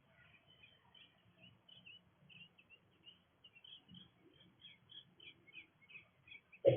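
Birds chirping, a steady run of many short high notes. Near the end comes a single sudden thump, much louder than the chirps.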